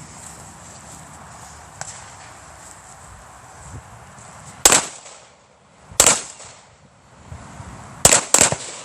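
Four gunshots: two single shots a little over a second apart, then a quick pair near the end.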